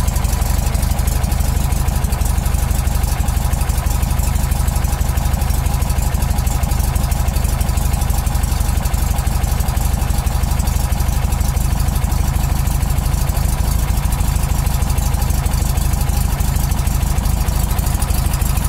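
Porsche 356 air-cooled flat-four engine idling steadily, an even run with no change in speed.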